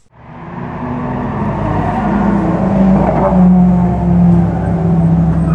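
Lotus Elise engine idling steadily, swelling in over the first second or so.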